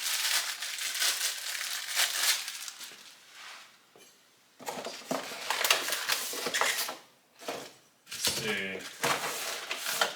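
Packaging of a hose reel wall hanger rustling and crinkling as it is unpacked, with hard parts knocking together; a brief lull about four seconds in.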